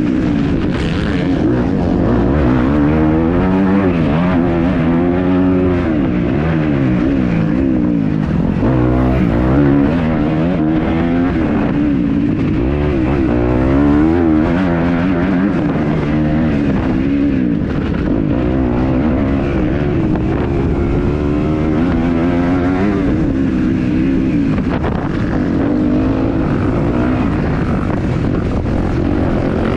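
Kawasaki KX250F four-stroke single-cylinder motocross engine, revved hard and shut off over and over, its pitch rising and falling every second or two as the bike accelerates and shifts around the track.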